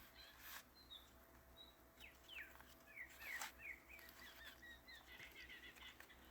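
Faint outdoor birdsong: a run of quick chirps and short sliding notes from small songbirds, with a couple of soft clicks among them.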